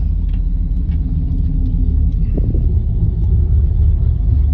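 Pickup truck engine and exhaust giving a deep, steady rumble.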